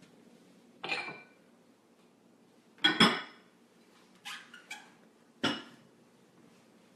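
Serving utensil knocking and scraping against a bowl and plate while the salad is dished out: a few short ringing clinks, the loudest a double knock about three seconds in.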